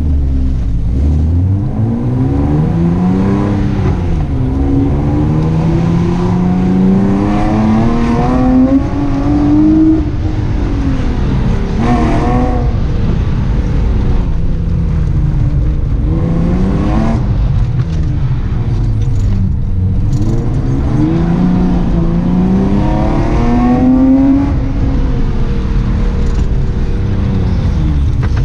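Car engine heard from inside the cabin during an autocross run. It pulls away from low revs in the first seconds, then climbs in pitch under hard acceleration and drops off when the driver lifts for the corners, several times over.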